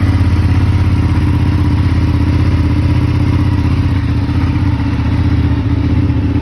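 2019 Ducati 959 Panigale's 955 cc Superquadro V-twin idling steadily through its stock exhaust just after a cold start.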